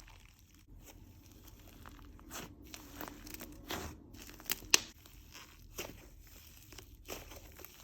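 Textured slime being squished and stretched by hand, making irregular crackles, tearing sounds and small sharp pops, with the loudest pop a little under five seconds in.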